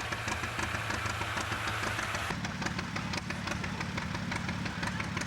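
John Deere Model G two-cylinder tractor engine running at idle with a regular pulsing beat; its note changes and rises a little about two seconds in.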